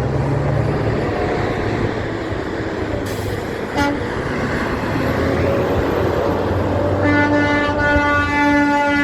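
Heavy truck passing close by with its engine and tyres running loud. A short horn toot comes about four seconds in, then a long, loud multi-tone air-horn blast starts about seven seconds in and is still sounding at the end.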